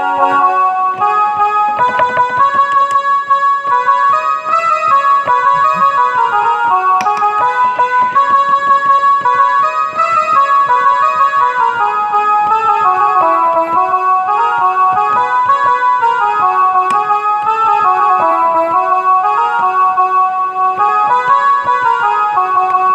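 Casio electronic keyboard playing a Muharram tune: a stepwise melody of held notes over a fast ticking rhythm.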